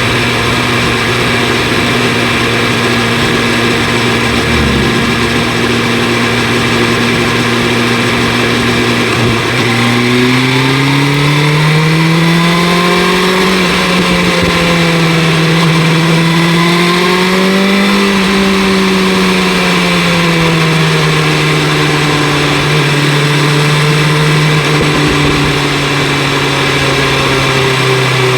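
BMW S1000 RR inline-four engine with an Akrapovic exhaust, holding a steady note for about nine seconds, then revving up, easing off and rising again before settling at a steady higher pitch, over a rush of wind.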